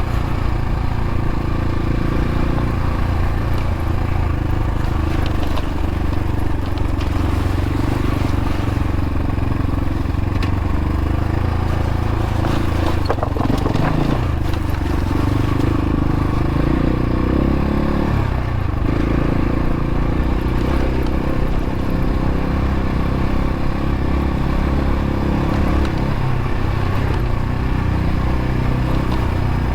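X-Pro Templar X dirt bike's single-cylinder four-stroke engine running as the bike is ridden, its note fairly steady with small rises and falls. A short spell of clattering and scraping comes about thirteen seconds in.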